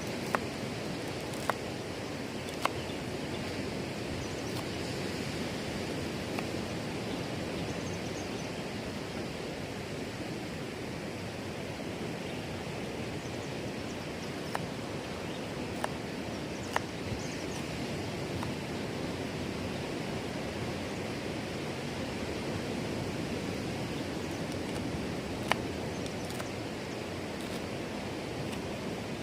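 Steady rushing noise of light night drizzle over nearby surf, broken by about eight sharp ticks of water drops falling.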